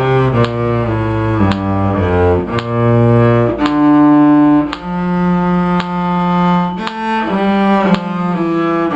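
Cello playing a simple melody in bowed notes, mostly short with a couple of longer held notes in the middle.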